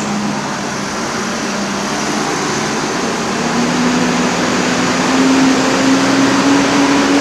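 Bus diesel engine running, its low note rising slowly in pitch and getting louder from about halfway through as it pulls on.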